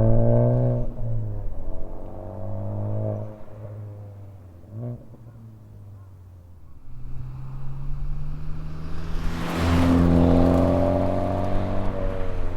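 Honda Civic Type R FK8's K20C turbocharged four-cylinder engine and its HKS Hi-Power Spec-L exhaust. The exhaust note falls in pitch at the start, dies down to a quiet stretch, then builds up again and is loudest near the end, with a brief rush of hiss as it swells.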